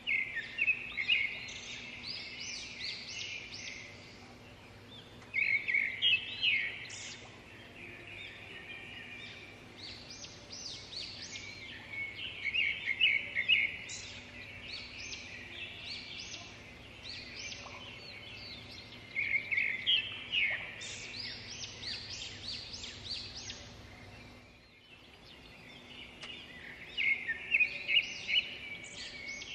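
Birds singing outdoors, with bursts of quick high chirps and trills every few seconds over a faint steady background.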